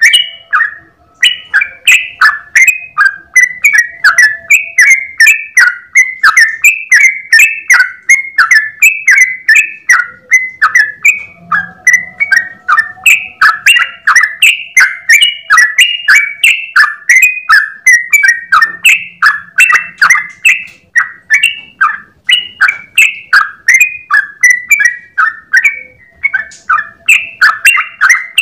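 Yellow-vented bulbul (trucukan) singing a long, unbroken 'ropel' run of rapid notes, about three to four a second, with barely a pause.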